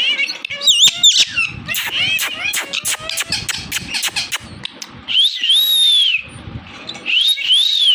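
Indian ringneck parakeet chattering: a quick run of chirps, clicks and short whistled notes, then two long arching whistled calls near the end.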